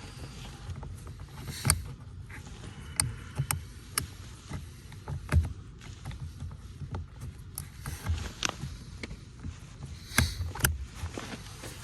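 Car HVAC blower motor running with walnuts trapped in its fan cage: a low rumble with irregular knocks and rattles as the nuts are flung around, the cause of the rumble heard from the dash.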